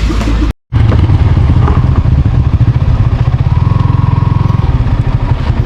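Motorcycle engine running under way, with a loud, rapid pulsing beat. It drops out for a moment about half a second in.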